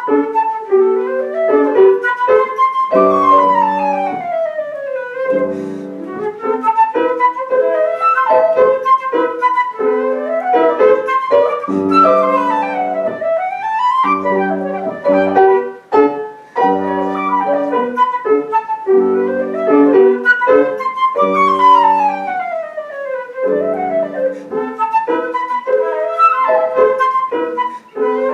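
Flute and piano playing a classical piece, with fast scale runs sweeping down and up and a phrase that comes back near the end.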